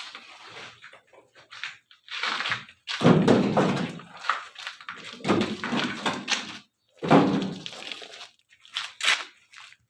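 A series of heavy thuds with crunching, about four in a row, each lasting around a second.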